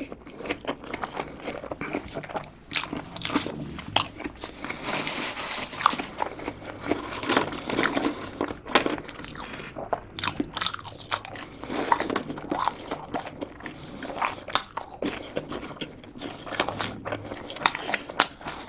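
A person eating fast food close to the microphone: steady chewing with frequent sharp crunches as French fries and fried chicken nuggets are bitten and chewed.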